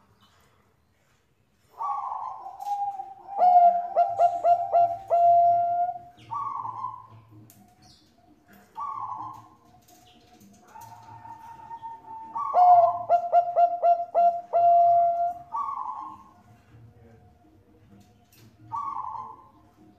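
Zebra dove (Bangkok perkutut) singing. Two long cooing phrases, about 2 s and 11 s in, each a run of rapid stuttering notes ending in a held coo, with short single coos between them.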